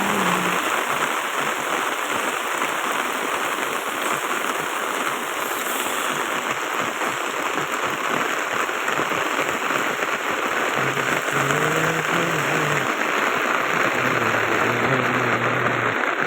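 Steady rainfall hissing on surfaces. Twice in the second half, a low pitched sound rises and falls beneath it.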